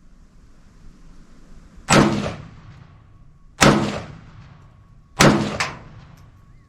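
Three rifle shots from an AK-pattern rifle, fired singly about a second and a half apart, each followed by a short echo.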